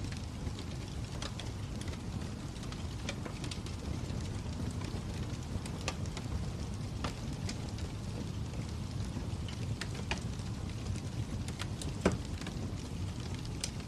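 Fire crackling: a steady low rumble with irregular sharp pops and snaps, one louder pop about twelve seconds in.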